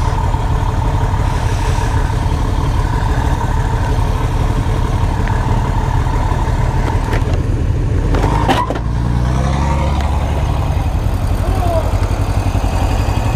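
Motorcycle engine running steadily. About eight and a half seconds in there is a brief sharp clatter, then the engine note rises.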